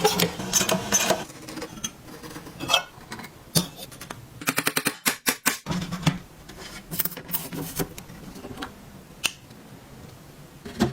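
Workshop handling noises from metal parts: irregular clicks, knocks and short scrapes, with a quick run of about eight clicks a second around the middle.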